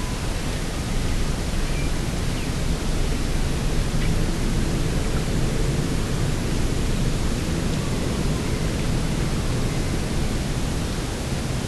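Steady rushing of coastal wind and sea, heaviest in the low end, swelling slightly through the middle before easing.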